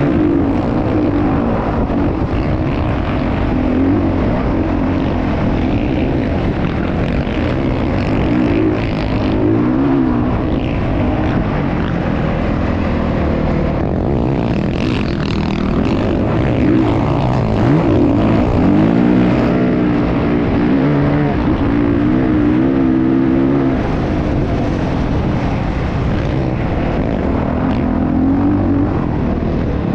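Motocross motorcycle engines running loud and without a break, their pitch rising and falling as they rev.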